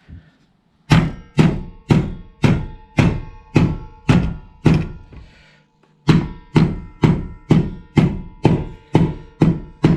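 Hammer blows driving a new seal into a motorcycle front wheel hub: steady strikes about two a second with a metallic ring after each. There are about eight blows, a short pause about five seconds in, then about eight more.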